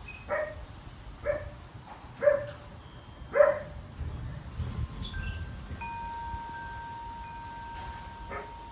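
A dog barks four times, about a second apart. Then metal wind chimes ring, with long steady tones held for several seconds, over the low rumble of wind.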